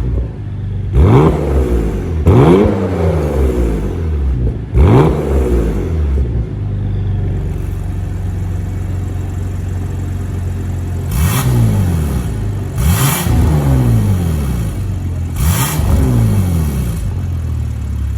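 Porsche Macan 3.0 V6 twin-turbo engine through a custom cat-back valved exhaust, idling and blipped six times: three quick revs in the first five seconds, a stretch of steady idle, then three more, each rising sharply and dropping straight back to idle.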